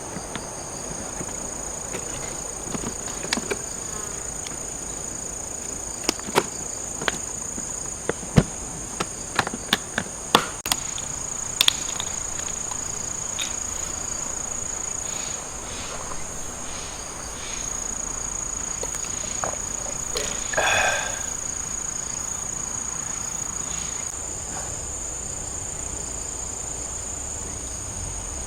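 Grass insects chirring steadily in two high-pitched bands, with scattered sharp clicks and knocks, most of them in the first half.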